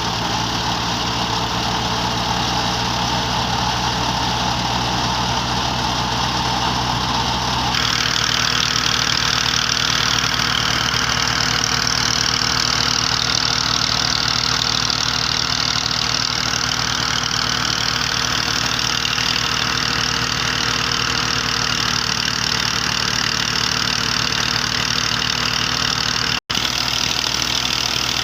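1966 Massey Ferguson 135 tractor engine running steadily under throttle, its sound growing brighter and louder about eight seconds in as it is revved. A split-second dropout cuts the sound near the end.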